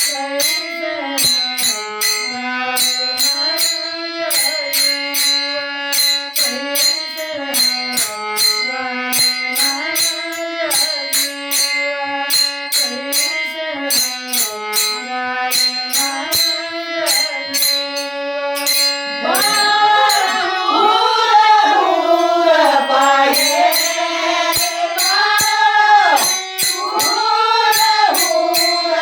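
Marathi folk song: a steady-toned instrumental melody moves in steps over an even, jingling percussion beat. About two-thirds of the way through, a woman's singing voice comes in, louder and wavering, over the same beat.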